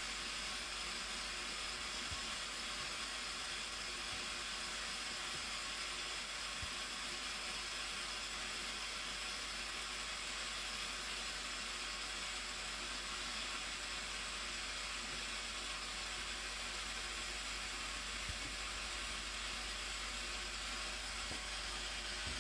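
Steady rushing hiss of falling water from the Blue Nile Falls, even and unbroken.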